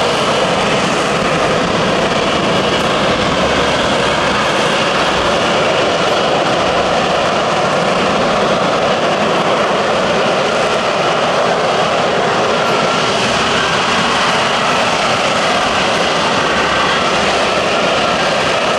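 Lockheed Martin F-35B's Pratt & Whitney F135 jet engine running at high power in the display, a loud, steady jet noise that holds level throughout.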